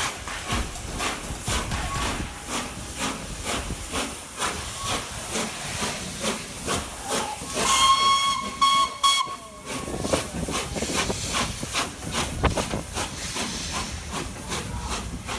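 Steam locomotive working, its exhaust beats coming in a fast regular rhythm. About eight seconds in it gives one whistle blast lasting under two seconds.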